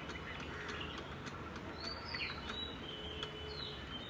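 Small birds chirping, a series of short sweeping calls over a low, steady background.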